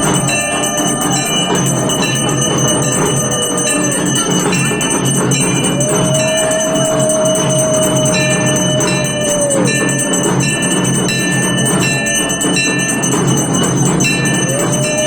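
Puja bells ringing continuously at a Kali aarti. Over them, a conch shell sounds one long, steady note held for about four seconds, falling off at the end, and starts again near the end.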